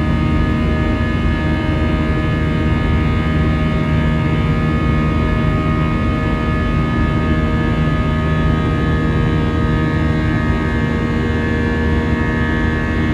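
Steady drone of an Airbus A320-family airliner's jet engines heard inside the cabin, a constant roar with several steady whining tones and no change in pitch or level.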